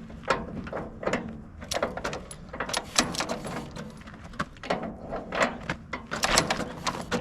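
Antique Farmall tractor engine being turned over with the hand crank: irregular clicks and knocks of the crank and engine without it catching, which the owner thinks may be a little flooded.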